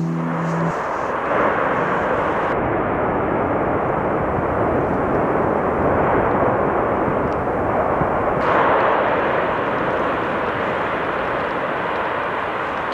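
Loud, steady rushing rumble without any clear tone, its character changing abruptly twice, about two and a half and eight and a half seconds in.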